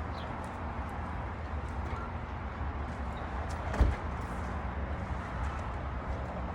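A single sharp thump a little under four seconds in, over a steady low rumble.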